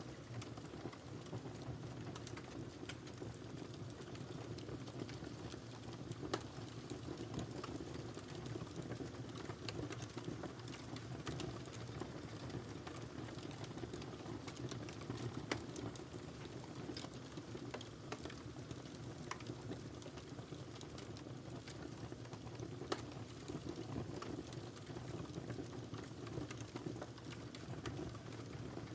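Wood fire crackling in a fireplace: a steady low rumble of burning with irregular sharp pops and snaps, a few standing out louder.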